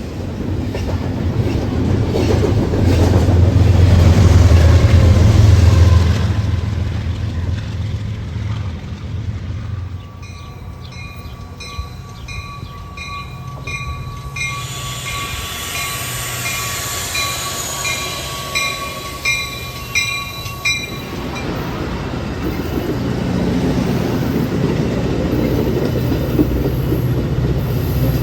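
A train passing, its low rumble loudest in the first few seconds and then fading. A grade-crossing bell follows, ringing about twice a second for around ten seconds. Then the rumble of a train builds again near the end.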